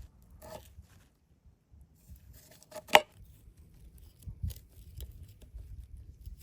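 Scattered clicks and rustles of things being handled, with one sharp crack about three seconds in.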